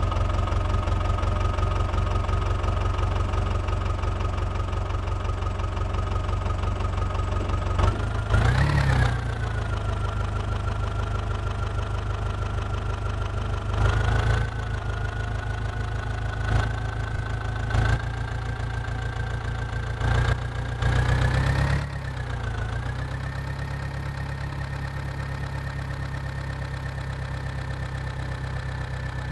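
Mahindra 275 tractor's diesel engine running steadily under load. It briefly revs up about eight seconds in, surges again a few times, then settles to a steady, slightly higher note.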